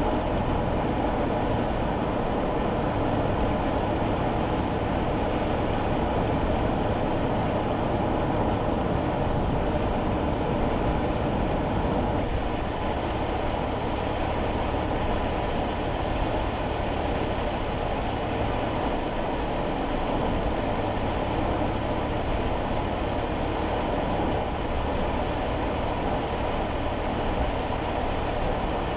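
Steady engine drone and tyre and road noise heard inside a small kei car's cabin while driving on a wet road. The rumble eases slightly about twelve seconds in.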